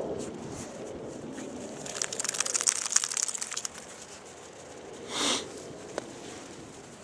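Snow crunching and crackling for about two seconds, then a short whoosh about five seconds in.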